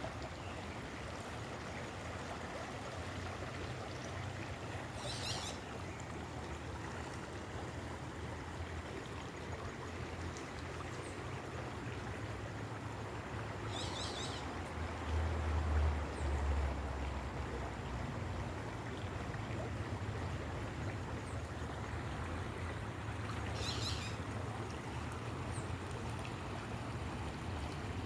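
Steady rushing of running water, like a stream, with a low rumble beneath it that swells about halfway through. Three short, high chirps come roughly ten seconds apart.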